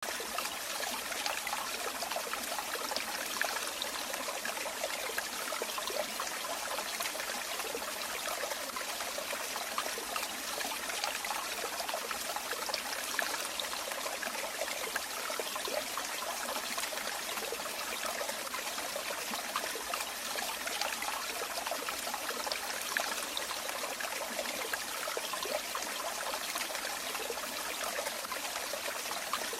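Running water trickling and splashing, a steady bubbling stream of water with no pauses.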